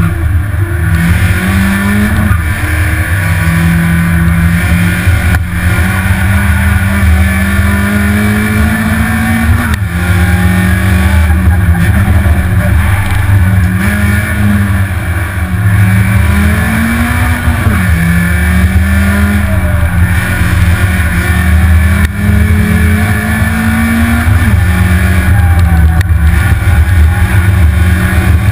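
BMW E30 318is rally car's 1.8-litre four-cylinder engine running hard under load, heard from inside the cabin. The pitch climbs as it pulls and drops back at gear changes and lifts for corners, several times over.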